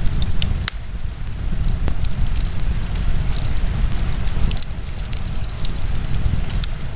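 Wood fire burning in a fireplace: scattered pops and crackles over a steady low rumble, with one sharper pop near the start.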